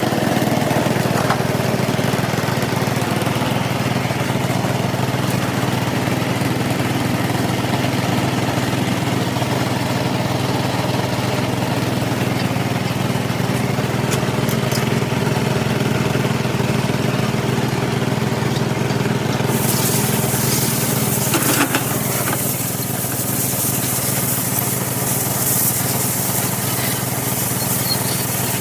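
An engine running steadily at a constant speed, with a high hiss joining in about two-thirds of the way through and a short knock shortly after.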